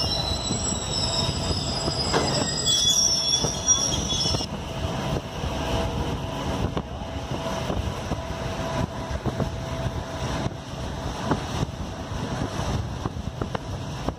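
Train running on the rails, heard from inside a carriage: high-pitched wheel squeal for the first four seconds or so, then a steady rumble with repeated clicks of the wheels over rail joints.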